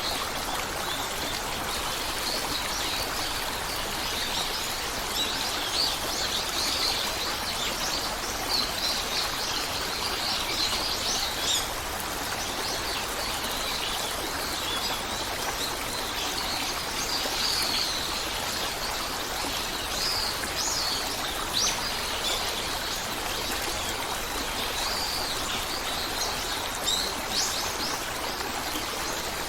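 A steady flowing stream with bird calls, short chirps and rising whistles, scattered through it.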